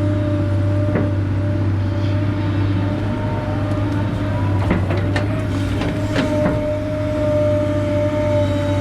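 Kobelco SK250 LC excavator's diesel engine running steadily with a constant hydraulic whine, and a few short knocks about a second in and between five and seven seconds in.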